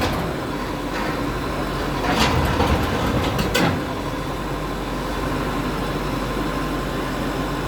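Demolition bulldozer running with a steady heavy rumble. Sharp knocks or crashes come about two, two and a half, and three and a half seconds in.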